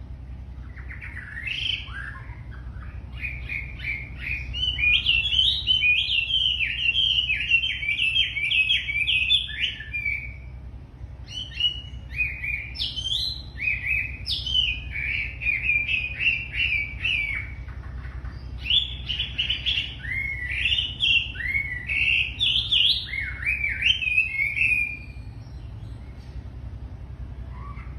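A wambi songbird in full song: long runs of rapid chirps and whistled notes, in three phrases broken by short pauses about 11 and 18 seconds in, with a new phrase starting near the end. A steady low hum runs underneath.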